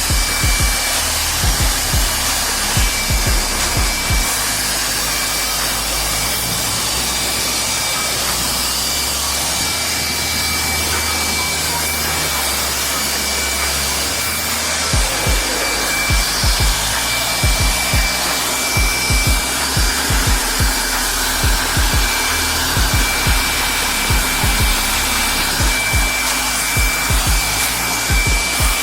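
Steady loud hiss of a car-wash high-pressure jet working over a car's engine bay, with irregular low thumps.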